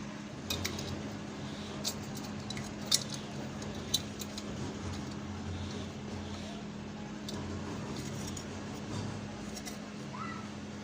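Small sharp metallic clicks and clinks from tools and fan parts being handled while the speed wires are fitted to the pedestal fan's selector switch. There are four clear ones in the first four seconds and fainter ones after, over a steady low hum.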